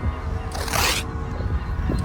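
Layered soundtrack: a steady low rumble with held tones, and a short, loud hiss about half a second in.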